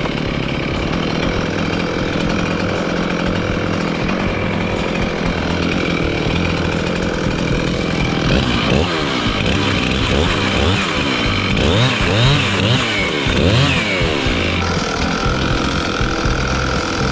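Gas chainsaw running, its engine revving up and down several times in the second half.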